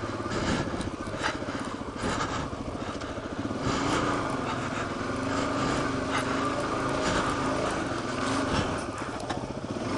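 Suzuki DR-Z400 single-cylinder four-stroke engine running at low, varying revs while the dualsport motorcycle rides a rocky trail, with scattered knocks from the bike going over rocks. The engine note holds steady for several seconds in the middle.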